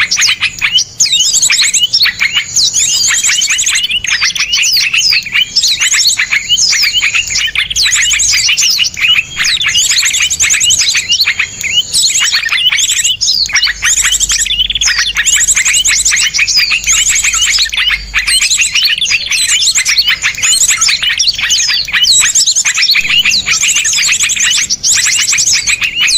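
Many small songbirds chirping and trilling at once in a dense, unbroken chorus of fast, sharp, overlapping notes.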